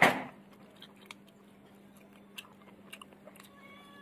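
A person chewing and eating chicken curry and rice by hand, with small mouth clicks scattered through. A loud sharp knock comes right at the start, and a faint steady hum runs underneath.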